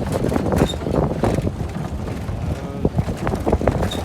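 Wind buffeting the microphone with a rumble, broken by frequent irregular knocks and clatters.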